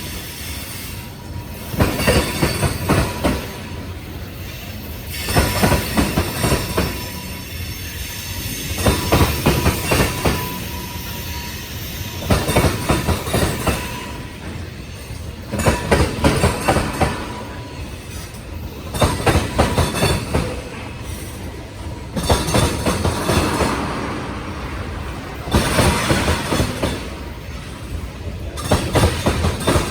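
Freight train cars rolling past, their wheels clacking over rail joints in a cluster of heavy clicks every three to four seconds, over a steady rumble with a faint wheel squeal.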